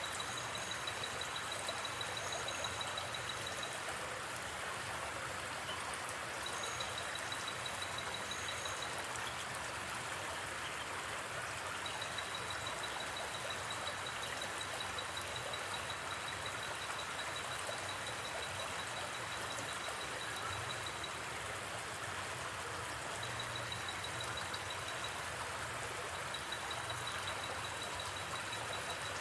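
Steady rushing of a gently flowing river. Over it, a high, rapidly pulsing trill of crickets comes and goes in stretches of a few seconds.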